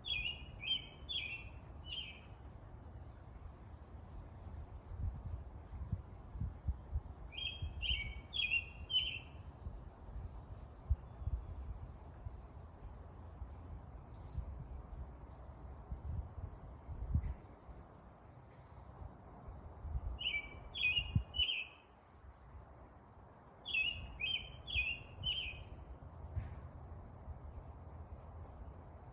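Songbirds chirping: four bursts of quick chirp phrases, with thin high single notes in between, over a low, uneven rumble.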